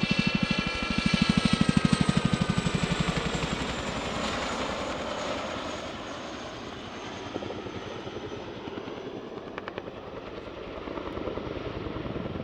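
Boeing Chinook tandem-rotor helicopter flying past: rapid rotor blade slap with twin-turbine whine falling in pitch. Both are loud for the first few seconds, then fade to a quieter, steady rotor noise.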